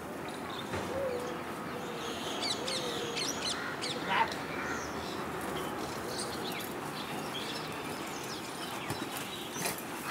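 Outdoor ambience with birds calling in the background, including a quick run of short, high chirps about two and a half seconds in.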